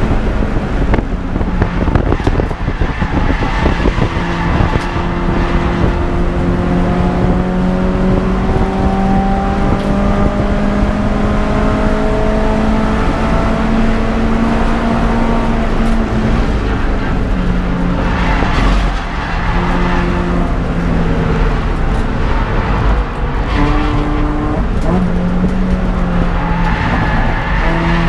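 Peugeot 206 GTI's four-cylinder petrol engine running hard at race pace. Its pitch climbs slowly for long stretches, then drops and steps several times in the second half.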